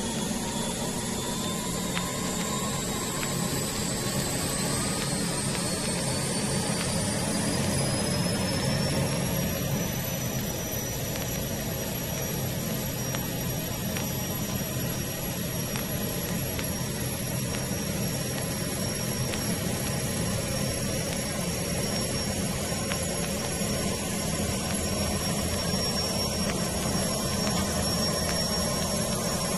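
Gas-turbine engines whining as they spool up over about the first ten seconds, then running at a steady pitch over a constant low rumble.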